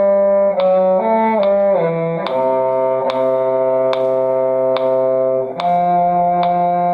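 Violin and cello duet: a low cello line and a higher violin line holding long notes and changing pitch together in slow rhythm, with a sharp metronome-like click a little less than once a second.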